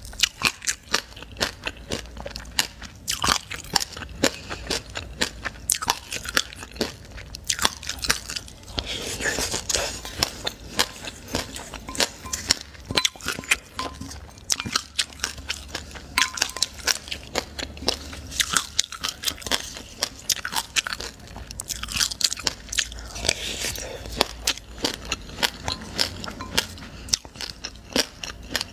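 Crunching and chewing of a mouthful of black and white sesame seeds: a dense, uneven run of small sharp crackles.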